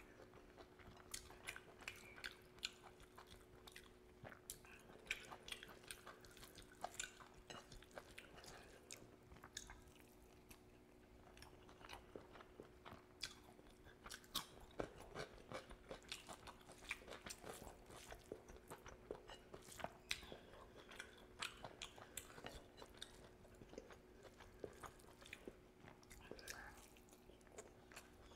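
Quiet, close-miked eating sounds: a person chewing rice and curry with many small wet clicks and crunches, including a bite of cucumber, over a faint steady hum.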